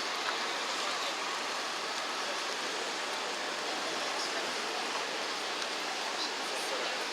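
Steady outdoor riverside ambience: an even wash of noise with no distinct engine note, voice or knock standing out.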